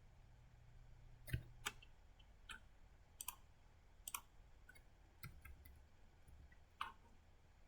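Computer mouse clicks, about ten, quiet, sharp and irregularly spaced, over a faint low hum.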